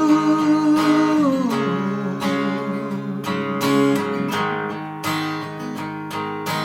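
Acoustic guitar strummed in a steady rhythm. A held sung note wavers and then slides down, ending about a second and a half in.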